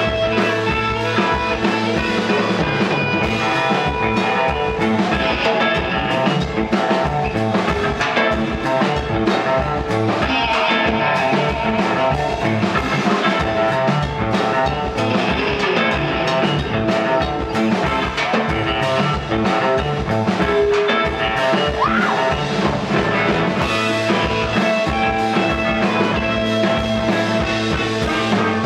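Live rock band playing loudly with electric guitar and drum kit, driven by a steady low beat.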